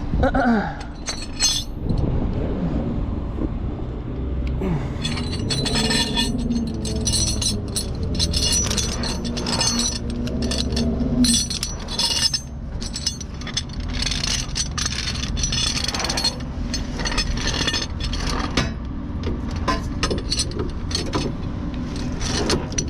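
Metal tow hook and chain clinking and rattling in many short irregular clicks while being pulled out and handled, over a steady low hum.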